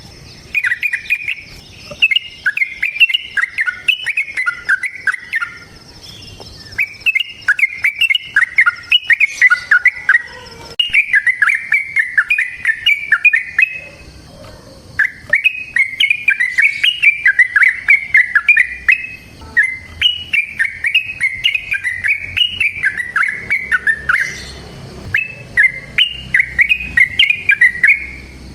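Yellow-vented bulbul (trucukan) singing its long, fast, bubbling chattering song, the 'ropel' run used as a lure. Phrases of several seconds come one after another with brief pauses between them.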